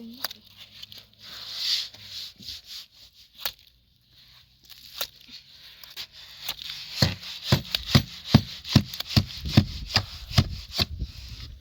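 Scraping and rubbing with a few separate clicks, then, from about seven seconds in, a steady run of knocks, roughly two or three a second.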